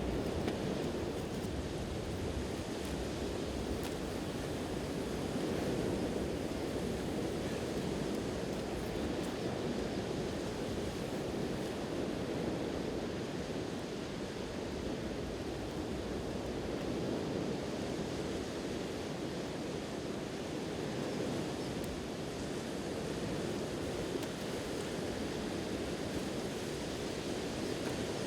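Ocean waves washing on the shore, a steady rushing surf that swells and eases slowly, with some wind.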